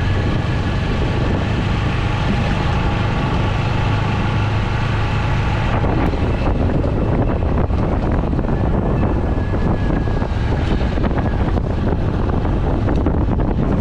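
TVS Apache 200's single-cylinder engine running under way, with wind noise on the microphone. The engine note changes about six seconds in.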